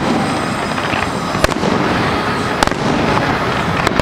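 Fireworks display going off: a dense, continuous noise of shells bursting overhead, with three sharp cracks about a second apart, starting about a second and a half in.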